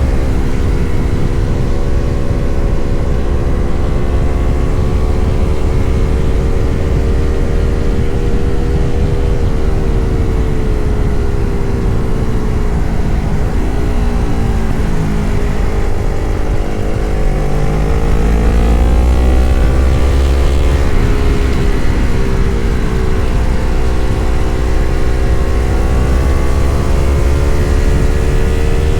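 Yamaha MT-03 parallel-twin engine running at riding speed, with a low rumble underneath. About halfway through, the engine note falls as the bike slows, then climbs again as it accelerates and settles to a steady cruise.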